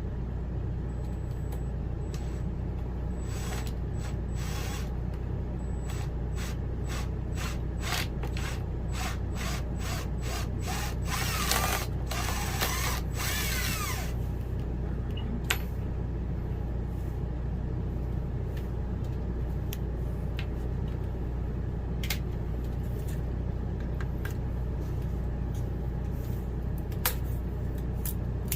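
Power drill worked against a stuck screw that won't back out: the drill runs in short bursts with a fast run of clicks, the longest burst about eleven seconds in, then only a few scattered clicks over a steady low hum.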